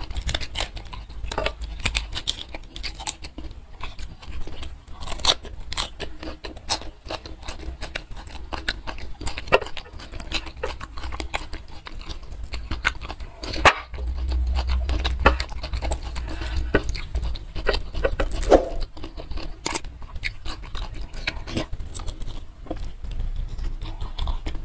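Close-miked eating: chewing green chilli chicken with many short, irregular wet mouth clicks and smacks.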